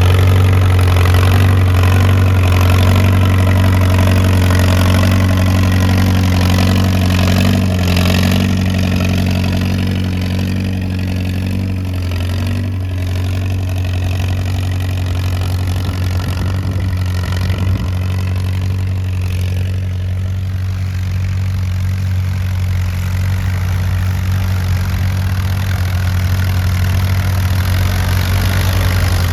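Antique tractor engine running steadily with a low, even drone that eases off slightly about twelve seconds in.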